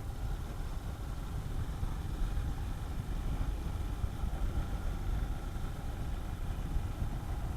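Honda CB400SS single-cylinder motorcycle engine running steadily at low speed while being ridden, with a constant low rumble.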